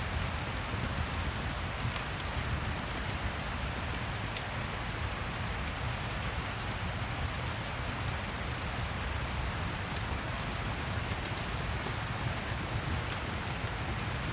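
Steady rain falling, with scattered faint high crackles from a fireplace.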